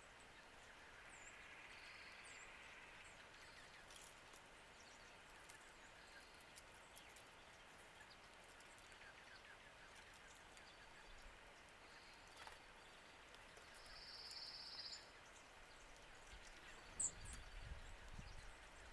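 Faint outdoor ambience with scattered short, high chirps and calls of small birds, and one louder buzzy note about three-quarters of the way through. Near the end there is a sharp click and a low rumble.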